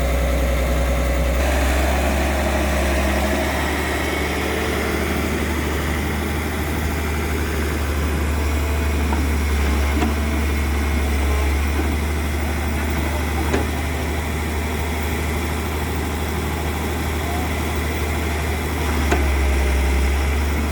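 Kobelco SK200-3 excavator's diesel engine running steadily at low speed, with its note shifting about a second and a half in and again near the end, and a few light clicks over it.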